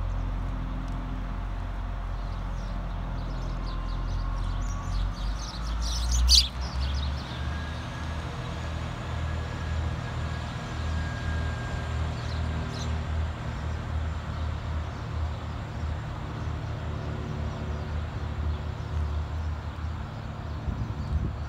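Diesel multiple-unit passenger train pulling away and accelerating, its diesel engines running as a low drone that becomes a pulsing throb, with a faint rising whine. A brief sharp noise stands out about six seconds in.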